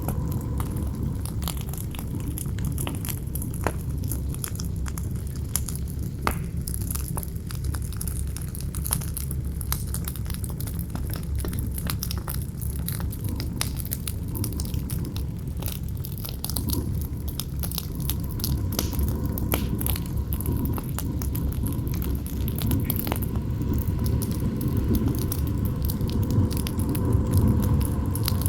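Campfire crackling, with many irregular sharp pops and snaps, over a steady low rumble of wind.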